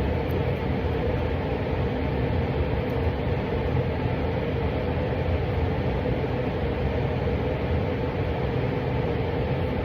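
Steady background hum with a held mid-pitched tone.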